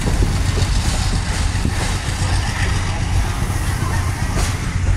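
Passenger train rolling along the track, heard from inside an open-windowed coach: a steady low rumble of wheels on rail with scattered light knocks.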